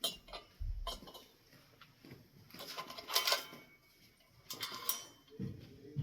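Metal ceiling-fan parts and hardware being handled: scattered clinks, clicks and rattles in several short bursts, with a dull thump a little under a second in.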